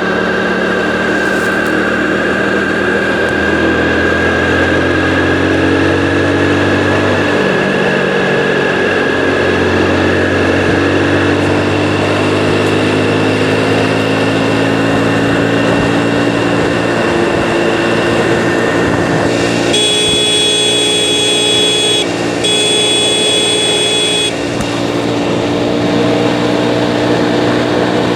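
Hero motorcycle engine running under way, its pitch climbing steadily, dropping sharply about seven seconds in as a gear changes, then climbing again. Two long horn blasts sound about twenty seconds in.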